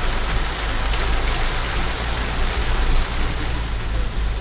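Heavy rain pouring down: a steady, even hiss over a low rumble.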